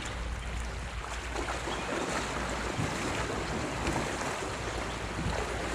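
Steady rush of moving creek water, with wind buffeting the microphone.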